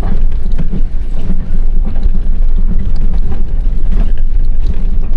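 A vehicle driving slowly over a rough dirt track, its engine running low and steady under irregular knocks and rattles from the jolting.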